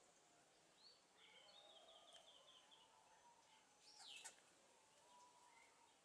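Faint calls of small birds: scattered chirps, a quick run of repeated notes in the first half, and a short falling call about four seconds in, the loudest of them.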